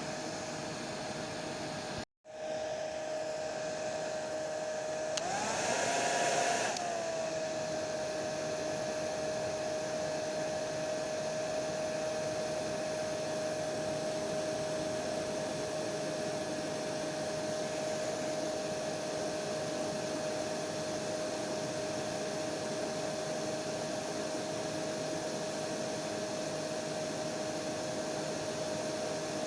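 Hair dryer running steadily, a rushing blow with a constant whine. About two seconds in the sound cuts out for a split second. A few seconds later it swells louder and the whine rises in pitch, then settles back to the steady run.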